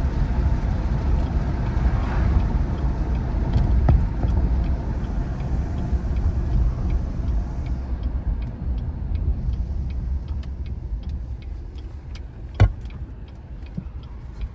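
Vehicle driving, heard from inside the cab: a low road and engine rumble that slowly fades as it slows down. A faint regular ticking comes in about halfway through, and there is a single sharp knock near the end.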